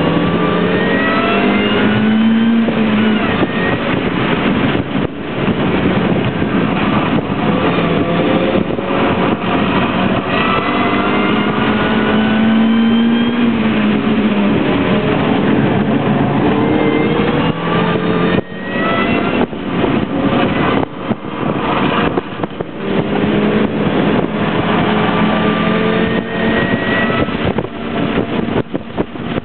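Mini Cooper's four-cylinder engine heard from inside the cabin under hard track driving, its pitch climbing again and again as it accelerates and dropping back at shifts and braking, with a brief lift about two-thirds of the way through. Wind and road noise run underneath.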